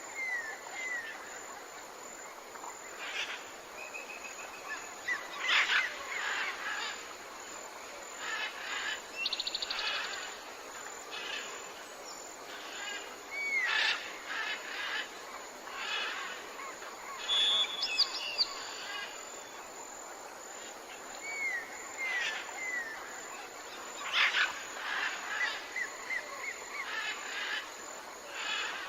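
Wild bird calls: a harsh, rasping call that comes back every eight to ten seconds, with short curved chirps and a quick high trill between them.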